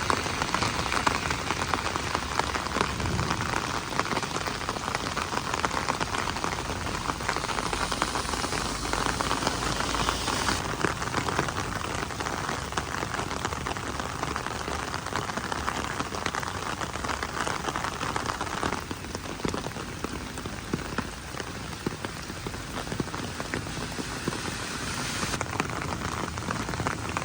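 Steady rain falling, a dense patter of many drops, its tone shifting slightly a few times.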